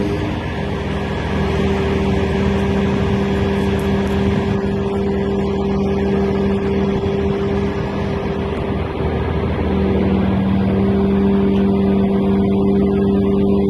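Engine running at a steady speed, a constant low hum with a brief dip about two-thirds of the way through.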